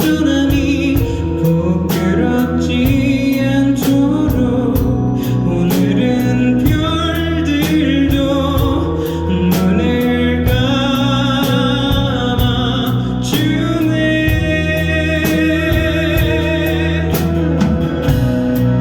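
Live band music: a full band playing with a steady drum beat, bass and a wavering melodic lead line on top.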